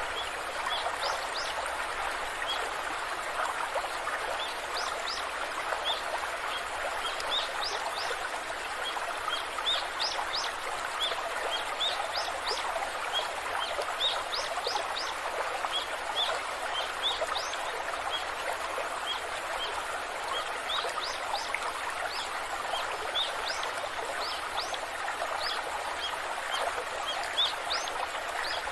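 Waterfall rushing steadily, with small birds chirping over it: many short, high chirps, some in quick runs.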